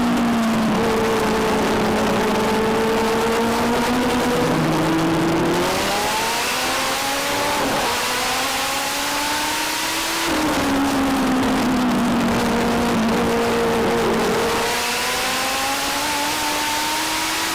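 Legend race car's Yamaha motorcycle engine running hard around a short oval: the engine note falls for several seconds as the driver lifts into a turn, then climbs as it accelerates down the straight, twice over.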